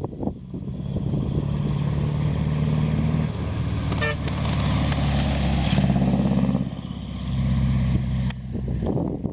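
Large truck's diesel engine driving past, a loud, steady engine note that shifts pitch a few times and dips briefly about seven seconds in.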